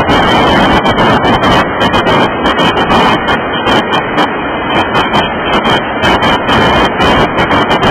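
Freight cars of a Union Pacific manifest train rolling past close to the track: a loud, steady rumble and rattle of steel wheels on the rails.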